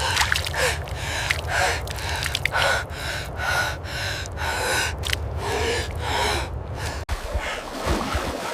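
Rapid, heavy gasping breaths, about three a second, over a steady low rumble that drops away about seven seconds in.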